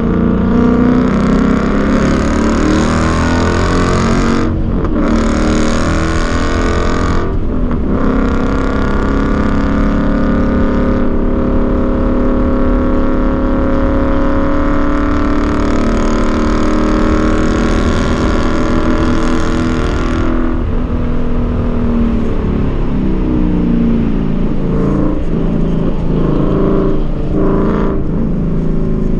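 Ford Mustang's engine under hard track driving, pulling up through the revs and backing off. It lets off briefly about five and seven and a half seconds in, holds a long pull from about twelve to twenty seconds, then eases off for the rest.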